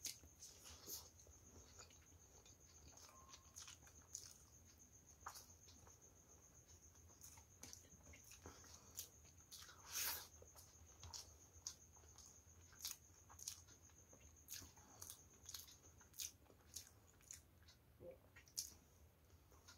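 A person eating rice and curry by hand, close to the microphone: soft wet chewing with irregular mouth clicks and smacks, the loudest about halfway through. A faint steady high-pitched whine sits underneath.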